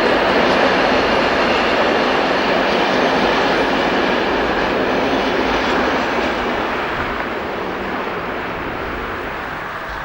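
A passing train's wheels clattering over the rail joints, the noise slowly fading as it goes by.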